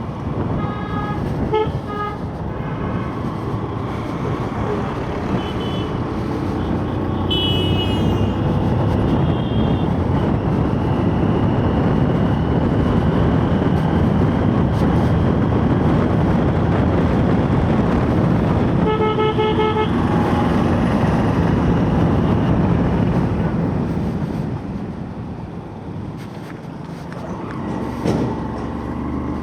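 Motorcycle riding in traffic: steady engine and wind noise, with vehicle horns honking in short blasts three times, the longest one about a second long a little before the twenty-second mark.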